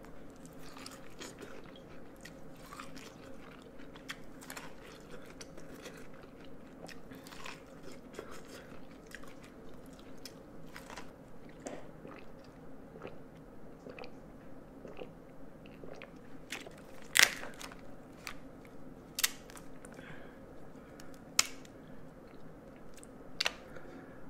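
A person eating a seafood boil: biting and chewing corn on the cob, with many small wet mouth clicks and a few sharp snaps in the second half.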